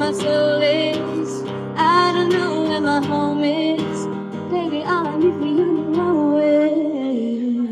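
A woman singing with acoustic guitar accompaniment, the closing phrase of a song; near the end her voice slides down onto a long held final note.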